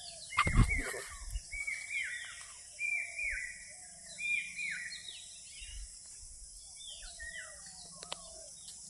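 Birds calling over and over in short, falling whistled notes, with a steady high hiss behind them. There is a loud low thump about half a second in.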